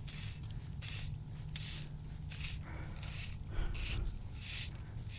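Insects chirring steadily, a high buzzing chorus that pulses about once or twice a second.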